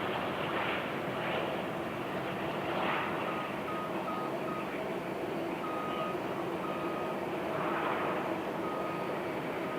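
Steady engine noise with a vehicle's reversing beeper starting about three seconds in: four quick beeps, then longer beeps about a second apart.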